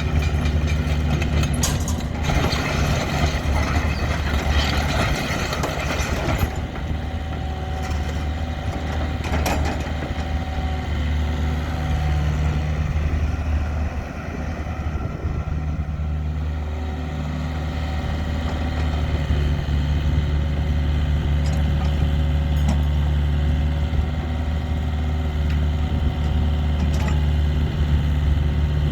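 Diesel engine of a 2014 Volvo EC55B Pro mini excavator running steadily. A louder rushing noise joins it for a few seconds near the start, and there are a few sharp clicks.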